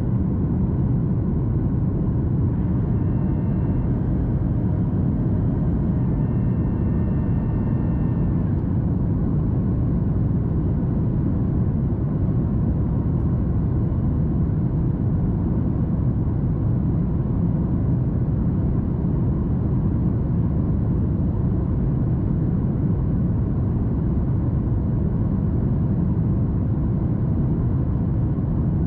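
Steady cabin noise of a Boeing 737 MAX 8 in flight, a constant low rush of airflow and CFM LEAP-1B engines heard from a window seat behind the wing. Faint thin whines come and go in the first several seconds.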